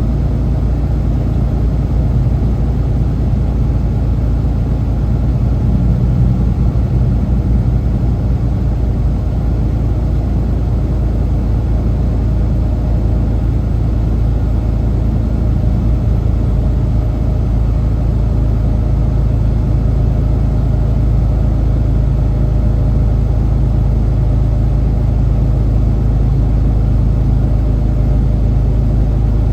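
Semi truck's diesel engine and road noise: a steady, loud low drone that holds level throughout.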